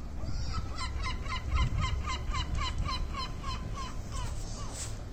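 A bird calling a rapid series of about a dozen short, falling notes, roughly three or four a second, which stop about four seconds in. A low rumble runs underneath.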